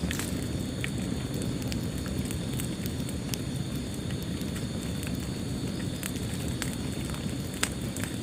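Wood fire crackling in a fireplace: a steady low rumble of flames with scattered sharp pops and snaps, the loudest pop near the end.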